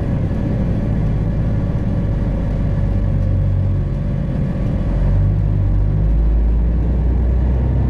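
Freightliner Classic XL semi truck's diesel engine running with a steady low drone, heard from inside the cab as the truck rolls slowly in traffic.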